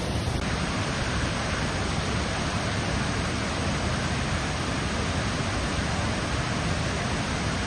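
Large waterfall, a steady rush of water falling over a wide series of cascades.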